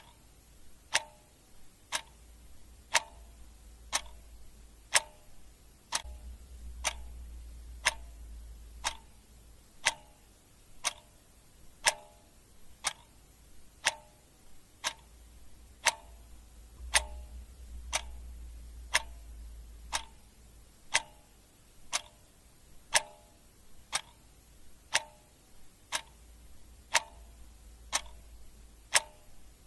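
Clock ticking steadily, one tick a second, with a faint low rumble swelling and fading underneath.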